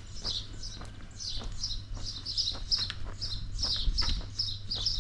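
A small songbird chirping over and over, several quick high notes a second, over a low steady rumble.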